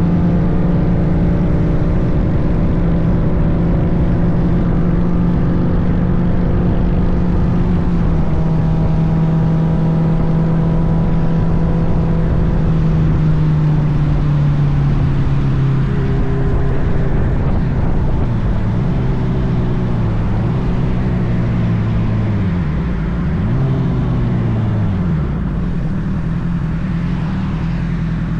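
Honda CBR sportbike engine running at a steady cruise, then slowing down with its pitch gradually falling. Near the end the pitch drops sharply and rises again before falling further. A constant low rushing noise, typical of wind on the microphone, lies under it.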